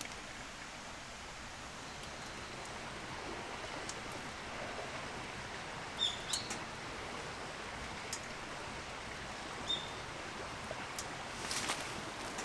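A few short, high bird chirps over a steady outdoor hiss, with a quick run of clicks near the end.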